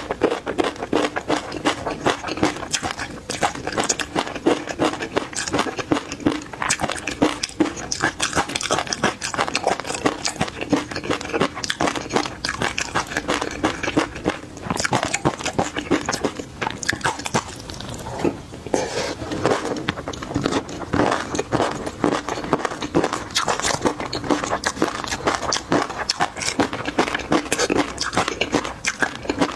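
Close-miked chewing and crunching of crushed peanuts and garlic in chili oil, a dense continuous stream of small crunches and mouth clicks.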